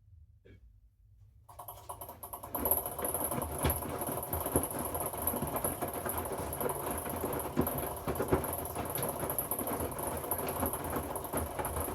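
Hoover inverter washing machine drum turning in the wash phase. The motor starts about a second and a half in and runs with a thin high whine while the load tumbles and knocks irregularly, then stops near the end.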